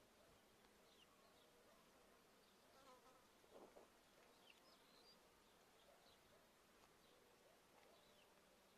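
Very faint garden ambience: an insect buzzing, briefly louder about three to four seconds in, with distant bird chirps scattered throughout.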